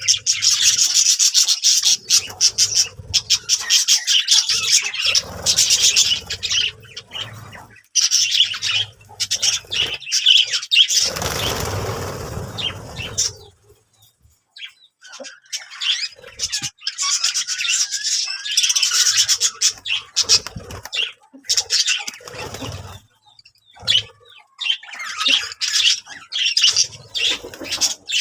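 Budgerigars chattering and chirping in bursts, with a rustling noise lasting about two seconds near the middle.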